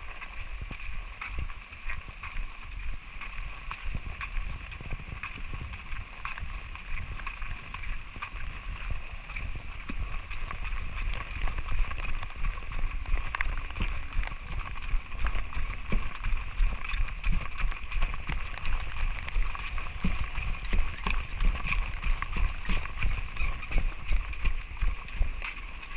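Footsteps on a hard surface during a walk in light rain, a steady run of short knocks that grows louder about halfway through, over a continuous high hiss.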